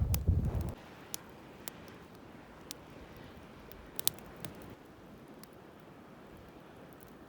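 Wind buffeting the microphone, dying away within the first second. It is followed by a quiet stretch with a few scattered sharp clicks and ticks.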